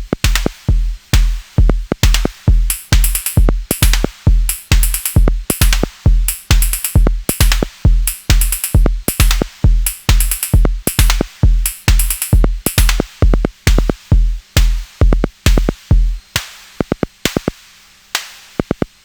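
Sonic Potions LXR-02 digital drum machine playing a techno groove: a steady kick drum about twice a second under hi-hats and percussion. About sixteen seconds in the kick drops out, leaving only sparse, clicky percussion hits.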